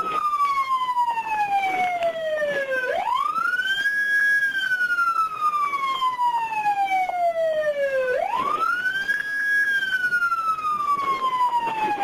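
Police siren on a slow wail: the pitch climbs quickly, holds briefly at the top, then falls slowly over about three seconds before climbing again, roughly every five seconds.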